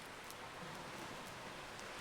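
Campfire crackling, with a few faint sharp pops over a steady rushing hiss.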